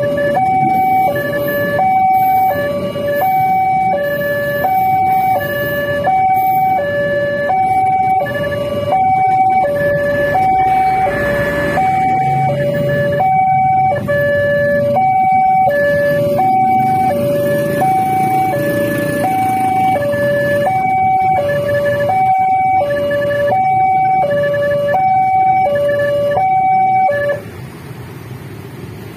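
Railway level-crossing warning alarm sounding an even two-tone high-low chime over and over, which stops abruptly about 27 seconds in. A low rumble runs underneath.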